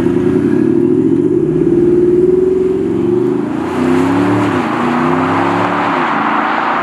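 Audi SQ8's 4.0-litre V8 TriTurbo TDI diesel engine accelerating hard as the car pulls away. The pitch climbs and drops back at upshifts about four and a half and six seconds in.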